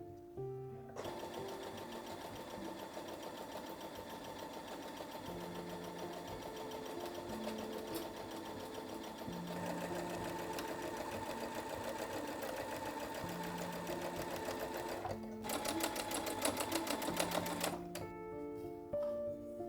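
Electric sewing machine stitching in a long steady run that starts about a second in. It then runs louder and faster near the end before stopping. Soft background music with slow sustained notes plays throughout.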